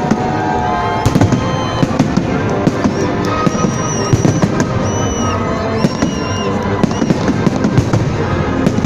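Fireworks salute: a dense, continuous run of bangs and crackles from bursting shells.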